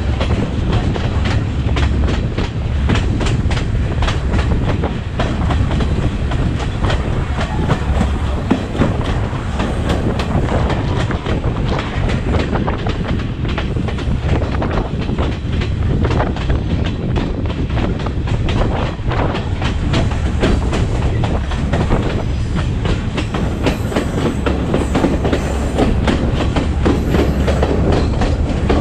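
Passenger train running steadily, its wheels clicking over the rail joints in a fast, uneven clatter over a constant low rumble.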